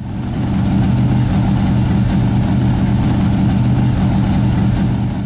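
An engine idling steadily with a fast, even pulse. It fades out near the end.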